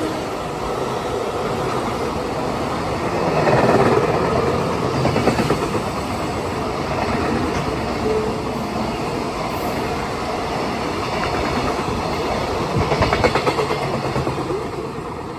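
Container wagons of a JR Freight train (Koki flat wagons) passing at high speed: a loud, steady rush of steel wheels running on the rails, swelling twice. It fades near the end as the last wagons go by.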